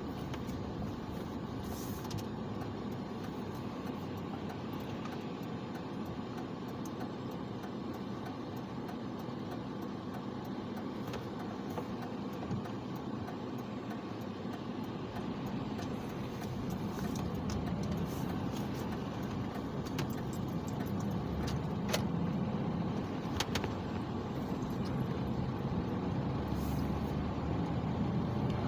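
Car driving on snowy roads: steady road and engine noise that grows somewhat louder about halfway through, with a few faint clicks.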